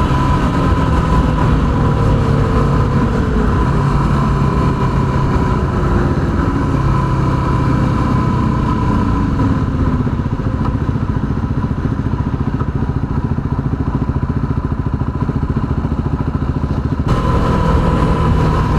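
Yamaha WR250R's 250 cc single-cylinder engine running steadily at highway speed. A tone falls in pitch in the middle, and the sound eases slightly before picking back up near the end.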